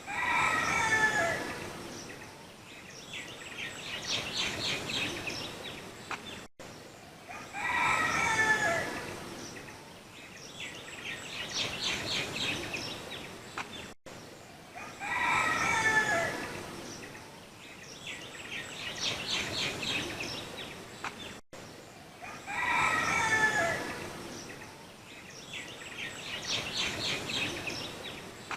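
Bird calls in a repeating loop: a loud crowing call with a falling pitch comes four times, about every seven and a half seconds. Each is followed a few seconds later by a rapid high trill.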